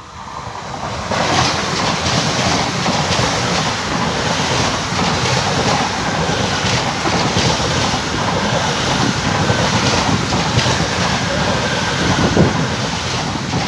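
Deutsche Bahn ICE high-speed electric train passing close at speed. A dense rush of wheel and air noise swells over the first second, then holds steady, with a faint whine running through it.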